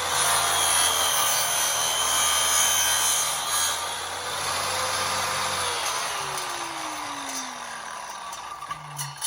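Power saw cutting wood, its motor running steadily. About six seconds in it is switched off and its pitch falls as the blade spins down. There is a sharp clack near the end.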